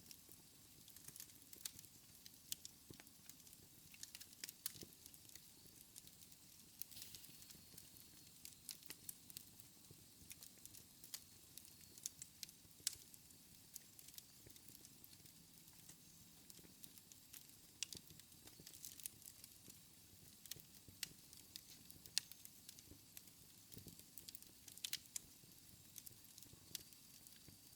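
Wood fire in a fireplace crackling softly, with frequent small irregular pops and snaps over a faint hiss.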